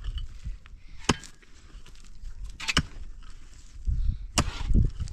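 Axe chopping wood: a few sharp single blows about a second and a half apart, one of them followed at once by a second quick hit.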